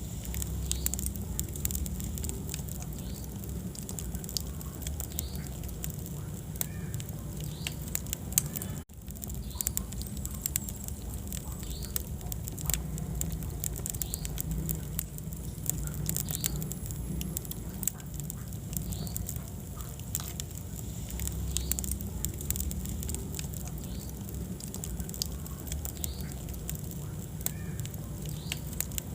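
Wood fire burning in a fireplace: irregular crackles and sharp pops over a steady low rumble of flames, with the odd short, faint squeak. The sound cuts out for an instant about nine seconds in, then carries on.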